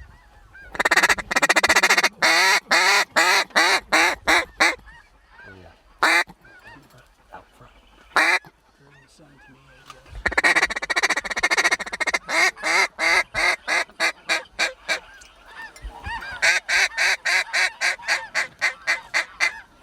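Snow geese honking in rapid, repeated calls, coming in dense bursts with quieter gaps between.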